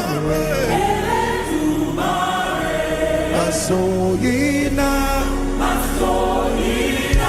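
Gospel choir and congregation singing a praise chorus over a steady bass accompaniment.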